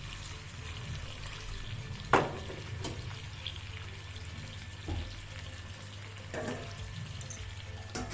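Chicken on the bone cooking over low heat in a covered pot, a faint steady sizzle, with several sharp clinks of metal cookware, the loudest about two seconds in.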